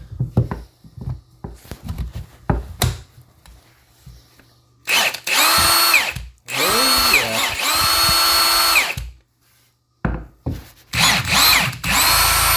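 Milwaukee M18 cordless impact gun's motor run free with no load in a series of trigger pulls, after a few seconds of clicks from handling it: two longer runs, two short bursts, then another run, each winding up in pitch and winding down when released. The gun is running again after it had no power, its insides cleaned of grease and dirt with contact cleaner.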